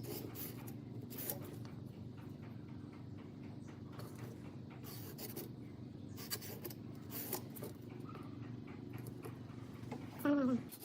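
A steady low machine hum with faint scrapes and taps over it. About ten seconds in, a short, loud squeal that falls in pitch.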